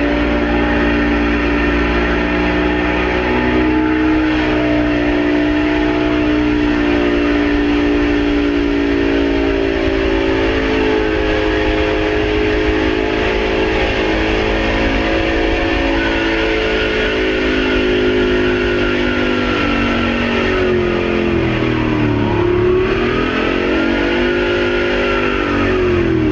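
Engine running at a high, steady speed with a sustained whining note. The pitch sags and recovers about two-thirds of the way in and again near the end. It is a runaway: the turbocharger has burst and the engine is running on its own oil with no way to shut it off.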